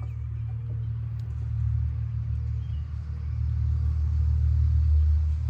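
A steady low rumble, slowly growing louder.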